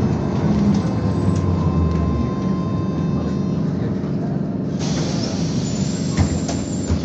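Interior of a BKM-221 trolleybus: steady low running rumble with a high electric whine that fades out as the bus slows. About five seconds in, a loud pneumatic air hiss starts and runs for about two seconds, with a couple of knocks near the end.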